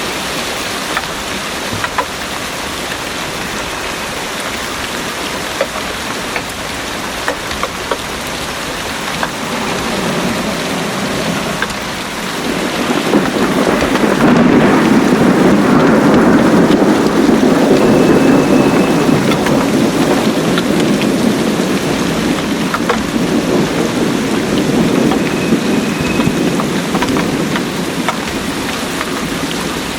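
Heavy rain falling steadily, with scattered close drop ticks. A long, low roll of thunder swells up about a third of the way in, is loudest around the middle, and slowly dies away before the end.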